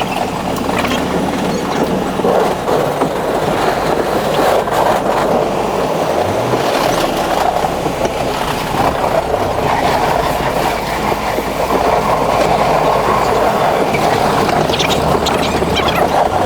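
New York City subway A train running at speed between stations, a steady rumble of wheels on rail heard from inside the car.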